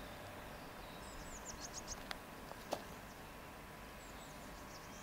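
A small bird singing quick runs of short high chirps twice, over a faint low rumble. Two sharp clicks come a little past halfway; the second is the loudest sound.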